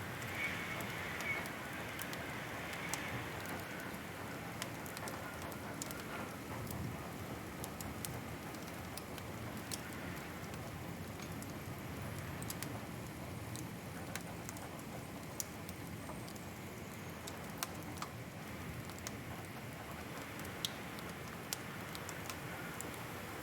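Wood fire crackling in a fireplace: a steady hiss with sharp pops scattered every second or so.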